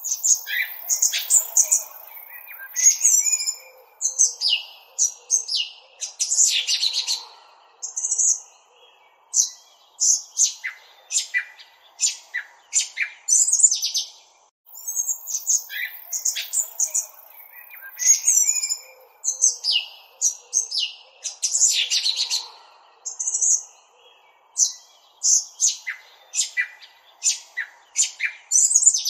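Small songbirds chirping: runs of sharp, high-pitched chirps and short trills in clusters with brief gaps between them, the same sequence of calls repeating after about fourteen seconds.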